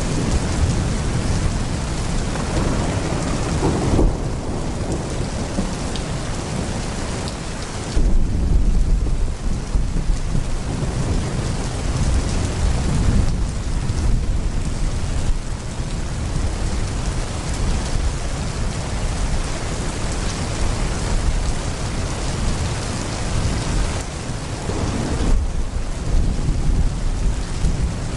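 Heavy rain pouring steadily, with thunder rumbling under it. A loud, deep roll of thunder breaks about eight seconds in, and softer rumbles swell and fade later.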